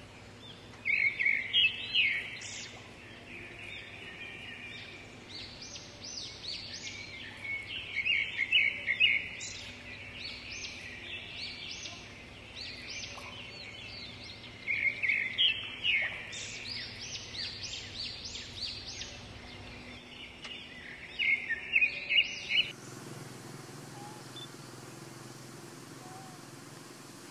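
A bird singing outdoors: four short bursts of quick, high chattering chirps, repeated about every six or seven seconds. Near the end the sound cuts to a steady outdoor hiss.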